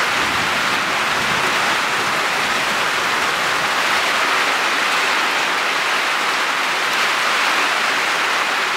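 Heavy summer downpour, rain pouring steadily in a dense, even hiss.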